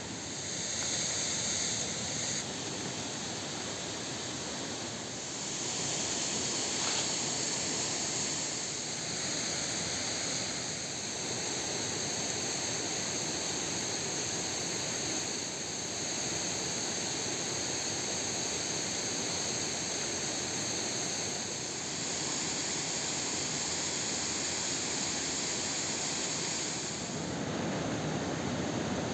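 Steady rushing noise that changes character abruptly several times, at about 2, 5, 11, 22 and 27 seconds in.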